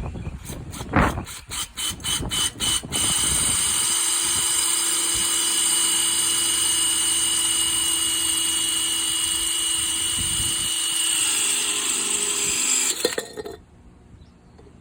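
Electric drill boring a drain hole in a flower pot: a few quick short bursts on the trigger, then a steady run of about ten seconds that stops near the end.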